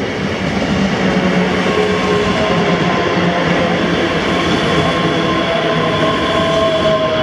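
ScotRail passenger train running through the platform: a loud, steady rumble of wheels on rail with several whining tones from the running gear, one falling slightly in pitch near the end.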